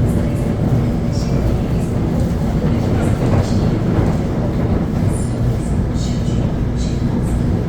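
Commuter electric train running along the line, heard on board: a steady low rumble of wheels on rails, with faint short squeaks and ticks now and then.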